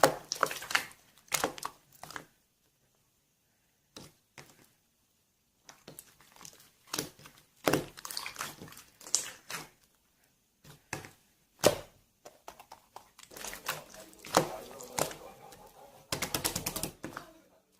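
Slime being squeezed and worked by hand, giving irregular bursts of clicking, popping and crackling with short pauses between handlings.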